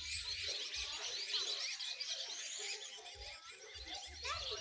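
A dense chorus of many small birds chirping and twittering at once, short quick high chirps overlapping without a break.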